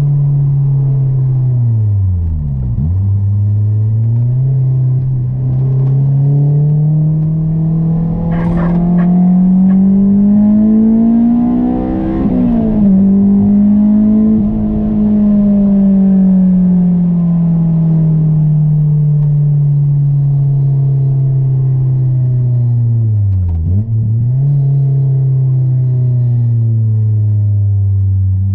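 Honda S2000 four-cylinder engine running under way through an aftermarket air intake. Its note climbs steadily under acceleration to a peak about twelve seconds in, then eases off and falls slowly, with two brief sharp dips in pitch, about three seconds in and near the end.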